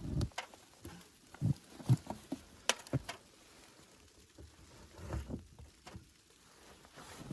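Irregular soft thumps and knocks, one every second or so, with a single sharp click about two and a half seconds in.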